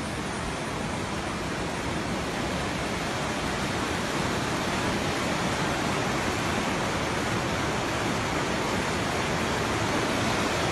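Floodwater rushing steadily through a channel it has cut through a house: a dense, even noise of running water, a little louder from about four seconds in.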